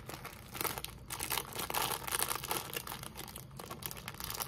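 Plastic cracker sleeve being crinkled and torn open by hand, an uneven run of crackling that is busiest through the first two-thirds.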